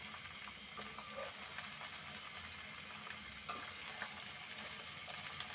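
Cut okra frying in hot ghee over a high flame: a steady sizzle, with a few light clicks and scrapes as a perforated metal skimmer stirs it in the metal pot.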